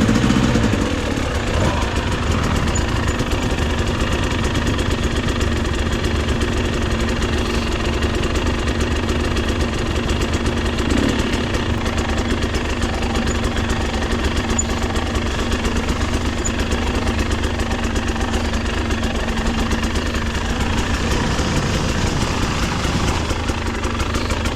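Dirt bike engine running steadily at low revs, close to idle.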